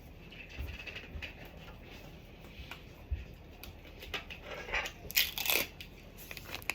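Packaging rustling and crinkling with light clicks and knocks as coffee machine parts are unpacked and handled, loudest about five seconds in.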